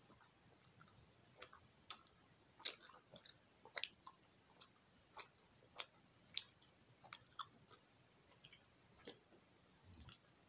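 Faint gum chewing: irregular soft, wet clicks and smacks of a mouth working a piece of bubblegum.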